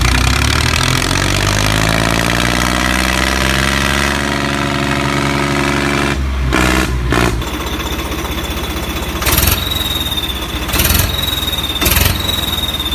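An engine running, its pitch sliding down over the first few seconds and then holding steady. A change comes about six seconds in, and three short louder bursts follow near the end.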